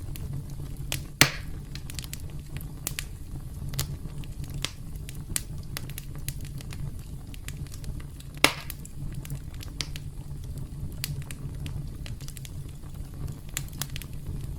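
Campfire crackling: a steady low rumble of burning wood with scattered sharp snaps, and two louder pops, about a second in and again about eight seconds in.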